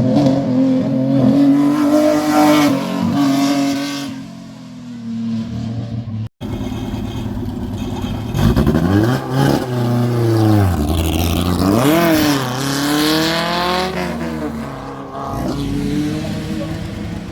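Rally car engines at full throttle going past, revving up and dropping in pitch through gear changes. The sound cuts out for a moment about six seconds in, then a second car's engine climbs and falls through several gearshifts.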